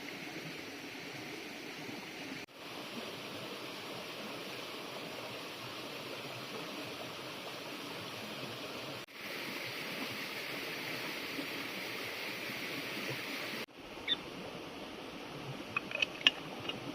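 Steady rush of flowing water, broken twice by brief cuts. About fourteen seconds in it gives way to a quieter background with a handful of sharp clicks.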